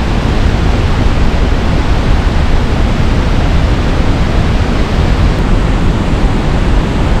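Loud, steady rush of water from the Pailón del Diablo waterfall.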